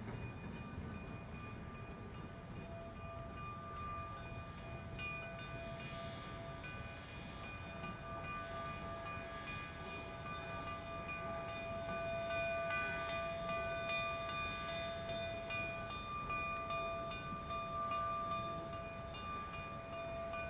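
Narrow-gauge passenger train cars rolling past on the rails: a steady low rumble with sustained high-pitched squealing tones over it, growing a little louder about halfway through.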